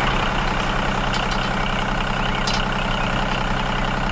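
Heavy vehicle engine idling steadily with an even low hum, like a bulldozer or truck diesel.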